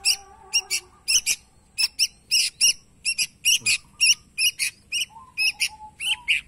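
Small birds chirping: a quick run of short, high chirps, about three or four a second, with a brief lower whistling note around five seconds in.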